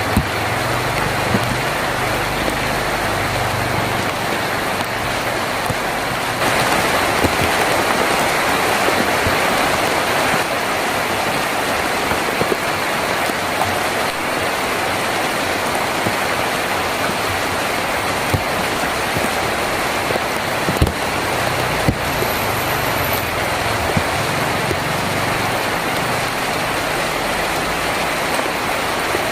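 Heavy rain drumming on a tin roof, a dense steady patter with occasional sharper drop hits; it grows louder about six seconds in. A low rumble sits underneath at the start and again past twenty seconds.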